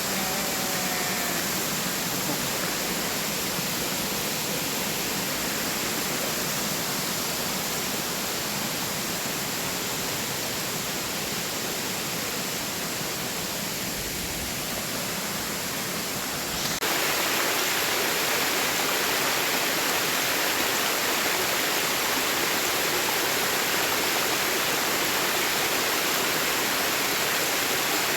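Rushing water of a waterfall cascade, a steady dense hiss. About seventeen seconds in it turns suddenly louder and brighter.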